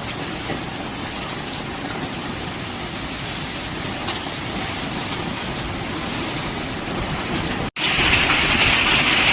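Rain and hail falling in a steady, dense hiss. After a brief cut near the end it is louder and harsher.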